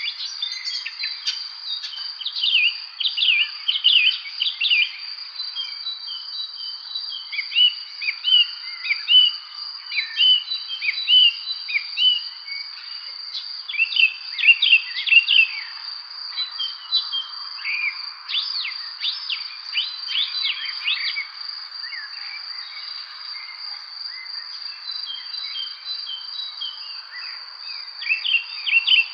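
Songbirds chirping and singing in short, quick phrases over a continuous, steady, high-pitched insect trill.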